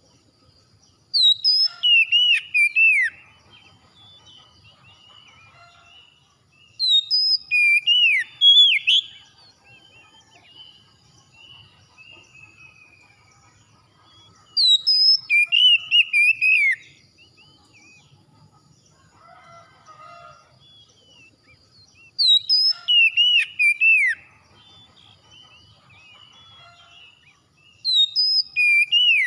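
Oriental magpie-robin (kacer) song: five loud bursts of quick whistled notes sliding up and down, each about two seconds long and six to seven seconds apart. Faint calls of other birds sound in between.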